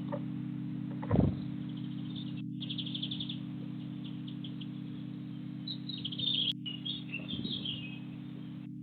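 Small birds chirping in quick high runs, about two and a half seconds in and again from about six seconds, over a steady low hum. A single thump about a second in is the loudest sound.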